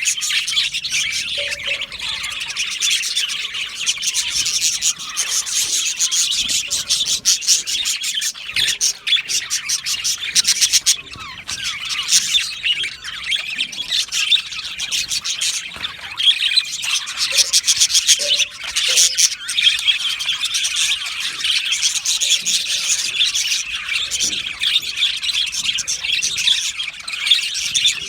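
A flock of budgerigars chirping and warbling together: a dense, continuous chatter of many overlapping high chirps.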